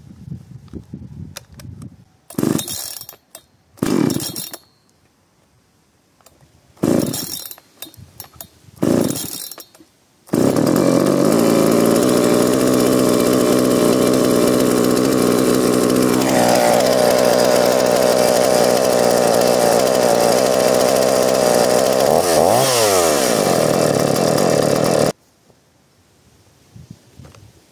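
Two-stroke chainsaw being pull-started: four short bursts, then it catches about ten seconds in and runs steadily. Its engine note drops about halfway through, dips and recovers briefly near the end, and cuts off suddenly.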